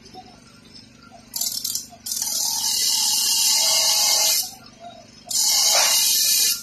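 Loud hissing in bursts: a short one about a second and a half in, a long one of a couple of seconds, a break, then another near the end.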